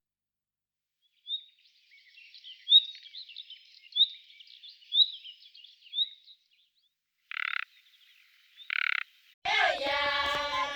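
Wild animal calls: short high chirping notes about once a second, then two short rasping calls, then from about three-quarters of the way in a louder, strongly pitched call with many overtones.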